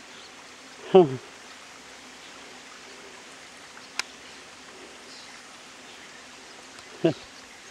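Small stream running steadily, a soft even rush of water, with one sharp click about halfway through.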